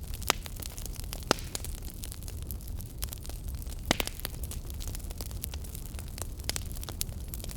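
Wood fire burning in a fireplace: a steady low rumble and hiss of flames with irregular sharp crackles and pops, a few louder snaps about a second in and near four seconds.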